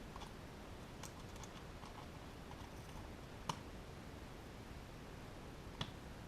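Small clicks and taps from handling a small plastic device, scattered early on, with two sharper clicks about three and a half seconds in and near the end, over a faint steady hiss.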